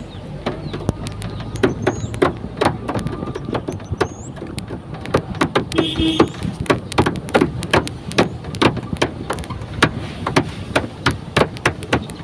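A vehicle running with a low steady rumble under frequent irregular knocks and rattles. A short squeal sounds about six seconds in.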